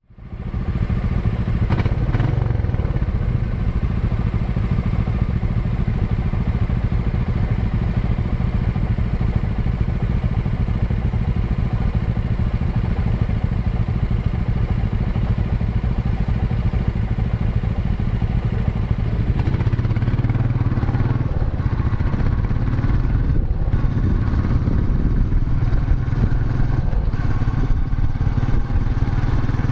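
Royal Enfield Meteor 350's single-cylinder engine and exhaust running steadily, getting fuller and deeper from about twenty seconds in.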